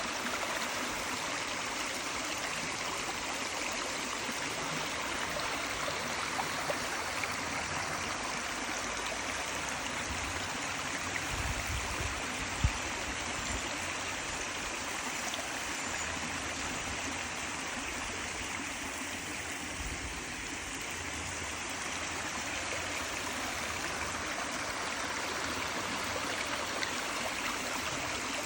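Steady rush of running water, as from a stream, with a few low rumbles and one short sharp knock about halfway through.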